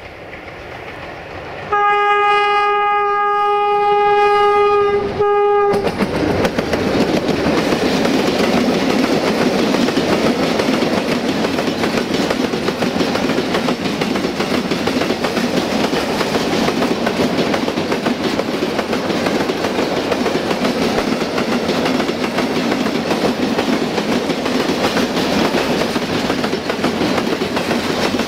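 Electroputere 060-DA diesel locomotive sounding one long horn blast of about four seconds as it comes in, the horn cutting off abruptly. Then the train passes close by: a long string of railway tank wagons rolling past with a loud, steady noise of wheels on the rails.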